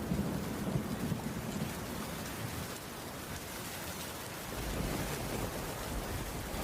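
Steady heavy rainfall, an even hiss of rain on the roof, with a low rumble swelling near the start and again from about two-thirds in.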